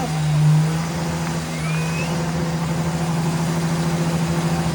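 Cummins diesel truck engine held at a steady high rpm: a constant drone with a slight rapid flutter. A short rising whistle is heard about two seconds in.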